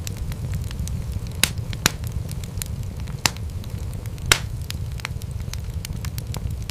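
Wood fire crackling in a fireplace: a steady low rumble of flames with many small snaps and several sharper pops, the loudest about four seconds in.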